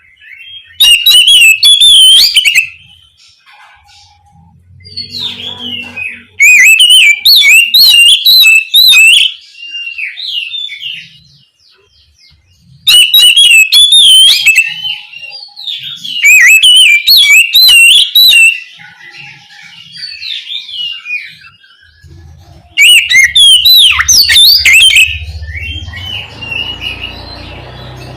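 Oriental magpie-robin singing in five loud bursts of rapid, warbling whistled notes, with quieter twittering between the bursts. A low rumble comes in near the end.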